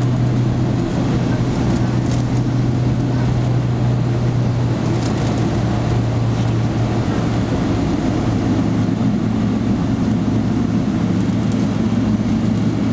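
Steady cabin noise inside a Boeing 777-300ER: a low, even drone from its GE90 engines and air system, with no rise in pitch or level.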